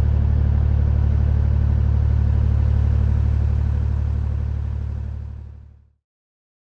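A canal barge's inboard engine running steadily under way, a low throb with a slight regular pulse. It fades away about five seconds in.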